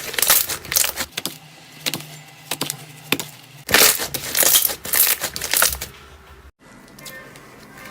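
Slime being squeezed and pressed by hand, giving rapid crackling pops in two loud bursts, one at the start and one from just under four seconds to about six seconds in, with softer squishing between and after.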